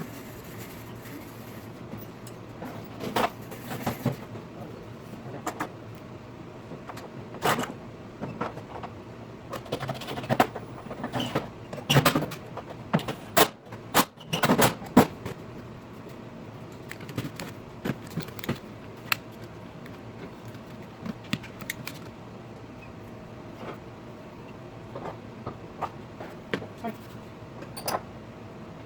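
Scattered clicks, knocks and clinks of grill parts and hardware being handled and fitted together during assembly, busiest in the middle.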